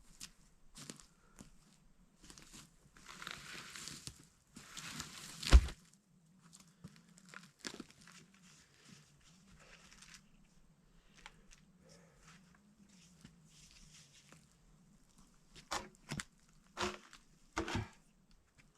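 Rustling and crackling of material being handled, with one heavy thud about five and a half seconds in and a few sharp knocks near the end.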